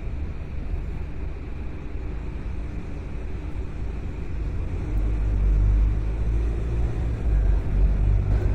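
Car driving along: a steady low rumble of road and engine noise, growing louder about five seconds in.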